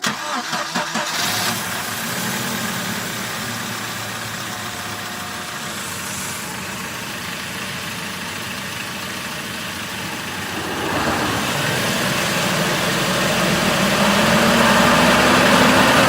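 Car engine cranking and catching, then idling, and revved up from about eleven seconds in, with a whine that rises in pitch along with the revs. This is the noise the owner is unsure about, whether it is a whistle or a grinding.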